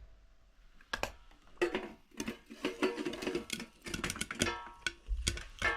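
Popcorn kernels popping in a covered pan: irregular sharp pops, a few a second, some ringing briefly off the metal, growing busier after the first second.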